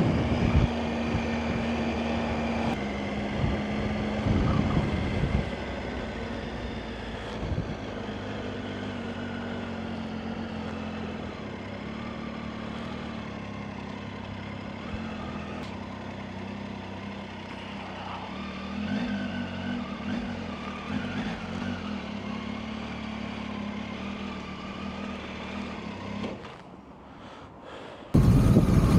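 Motorcycle engine running steadily on the road with road noise, its pitch stepping up and down a few times. Near the end it goes quieter, then cuts abruptly to a much louder roar.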